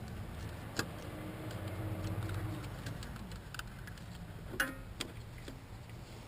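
A few sharp clicks and one louder metallic clink from small metal objects being handled, over a low steady hum.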